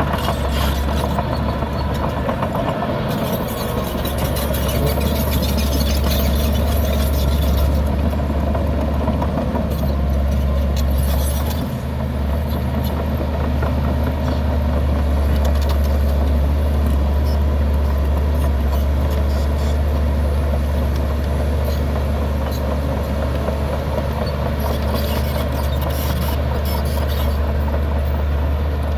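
Heavy diesel earthmoving machinery running steadily with a deep, continuous engine drone. A few short bursts of high hissing rise over it.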